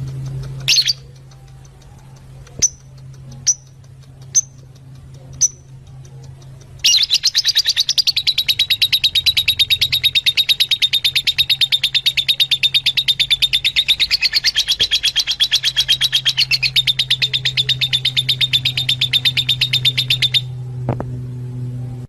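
Fischer's lovebirds chirping: a few single sharp chirps, then about seven seconds in a long, fast, even run of high chirps that stops suddenly near the end, over a steady low hum.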